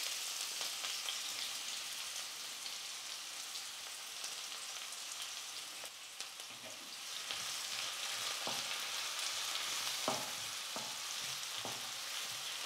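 Chopped onion, green chillies, ginger and curry leaves sizzling steadily in hot oil in a metal kadai. From about six seconds in, a wooden spatula scrapes and taps against the pan as it stirs.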